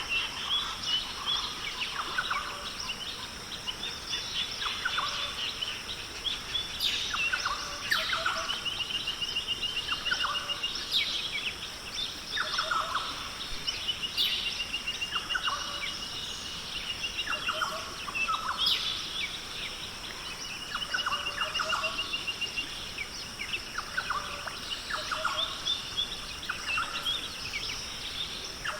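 Rainforest ambience of several birds calling over and over, including rapid trills and short sharp falling calls, over a steady high-pitched hiss.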